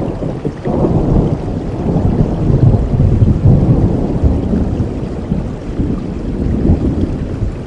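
Long rolling thunder rumble over steady rainfall. The rumble builds about a second in and slowly eases off toward the end.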